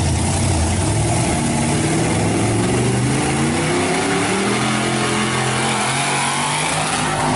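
Off-road vehicle engine revving under load, its pitch rising and falling, over a steady hiss.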